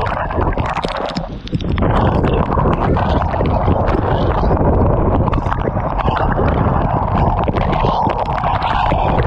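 Heavy rain with wind buffeting the microphone: a dense patter of drop impacts over a low rumble, easing briefly about a second and a half in.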